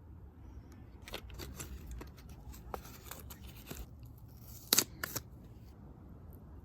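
Small tools and metal bike parts being handled during rear disc brake fitting: a run of short clicks and scrapes, ending in two sharp clicks near the end.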